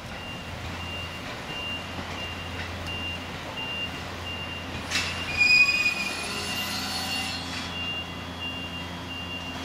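Trains moving slowly through a rail depot: a steady low hum under a high electronic warning beep repeating about three times every two seconds. About halfway a clack is followed by a short high steel wheel squeal on the rails, the loudest sound, with fainter squealing tones after it.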